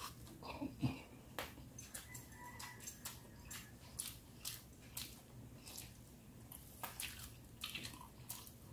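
Close-up chewing of rice and soft boiled pork: faint, wet smacking clicks of the mouth, irregular, about two a second.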